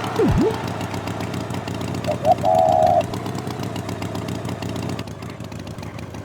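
An engine running steadily, with a quick swooping sound just after the start and two short chirps then a held horn-like note about two seconds in.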